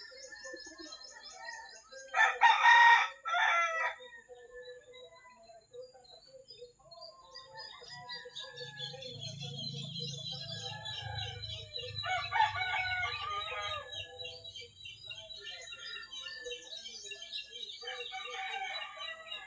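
A rooster crowing loudly about two seconds in, with other roosters crowing more faintly later, over steady small-bird chirping. A low hum runs through the middle stretch.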